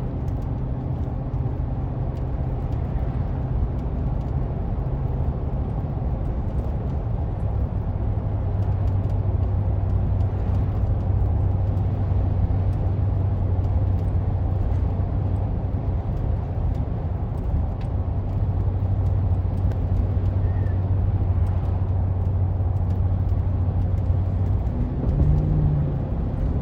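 Steady engine and road drone of a car, heard from inside the vehicle, with a low hum that drops slightly in pitch about eight seconds in.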